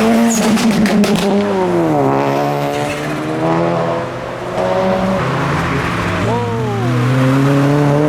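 Modified car engine running through the gears as the car drives by, its pitch dropping about two seconds in and climbing again as it accelerates near the end. A quick run of sharp crackles comes in the first second.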